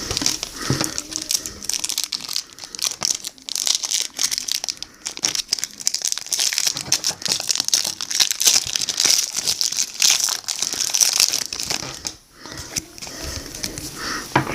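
Plastic foil trading-card pack wrapper crinkling and crackling as it is handled and torn open, with a short lull near the end.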